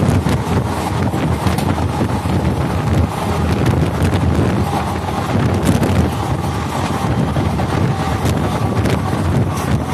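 Dadar Express passenger coach running at speed on the rails, heard from its open door: a steady rumble and rattle of the moving train with wind blowing across the microphone, and occasional sharp clicks from the track.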